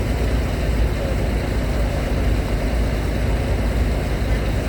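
Heavy engines idling with a steady low rumble.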